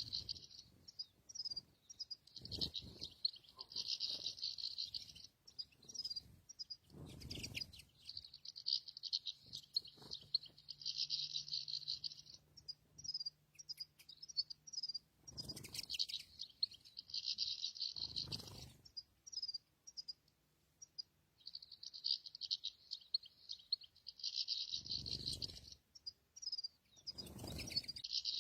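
European goldfinch singing: long runs of fast, high twittering, broken by short pauses and single chirps. Several dull low thumps or rustles come in between.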